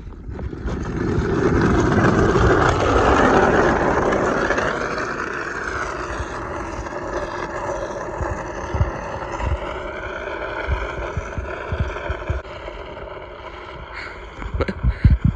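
A small engine revving up as the vehicle pulls away, then running at a steady speed, with wind buffeting the microphone.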